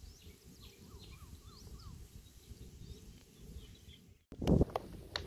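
Outdoor ambience with birds chirping and calling, including a short run of quick rising-and-falling notes, over a low rumble. About four seconds in the sound cuts out briefly and a loud low thump follows, with scattered clicks.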